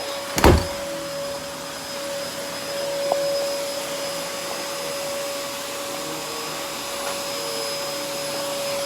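Steady whirring of a motor-driven household appliance, with a steady hum, and a single knock about half a second in.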